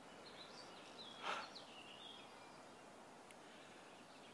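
Faint birdsong: a few short chirps and whistles over a low steady hiss, with a brief soft rush of noise a little over a second in.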